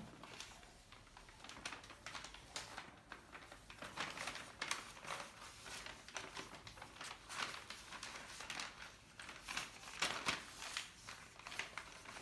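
A sheet of paper rustling and crinkling in short, irregular crackles as it is folded and creased by hand into a paper airplane.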